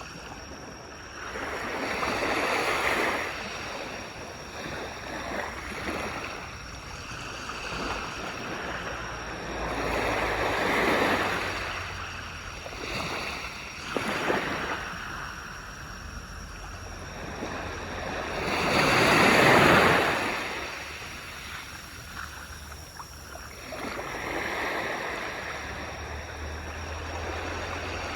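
Ocean waves washing onto a beach. The surf comes in separate swells every several seconds, each rising and then fading, and the loudest wave breaks about two-thirds of the way through.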